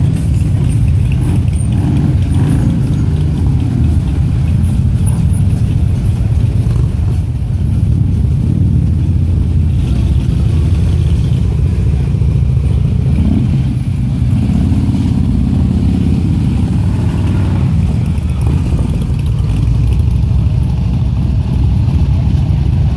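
A stream of Harley-Davidson motorcycles riding past, a continuous loud, low engine rumble, with an engine revving up a little over halfway through.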